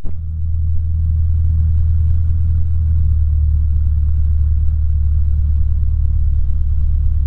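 Cessna 150's Continental O-200 four-cylinder engine idling steadily while it warms up after a cold start, a deep, even drone heard through the cockpit headset intercom.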